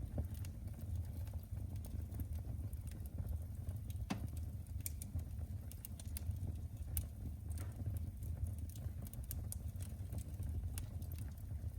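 Wood fire in a fireplace crackling: irregular sharp snaps and pops over a low steady rumble of the flames.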